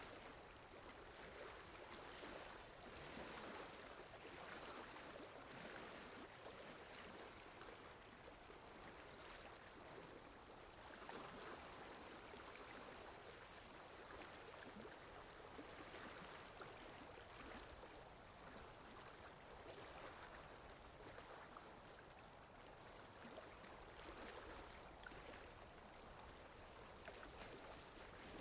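Steady rain falling, a soft even hiss that swells gently every second or two.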